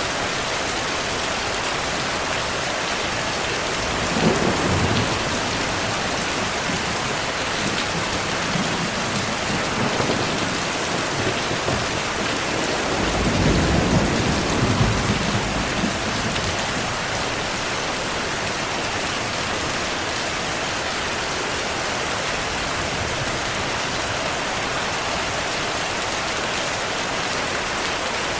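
Steady rainfall with thunder: a sudden clap about four seconds in, a faint roll near ten seconds, and a longer rumble of thunder around the middle.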